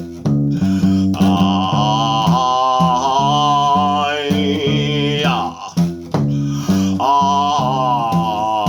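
Music: a one-string acoustic guitar plucking a repeating low riff of alternating notes, with a wordless vocal line gliding up and down over it.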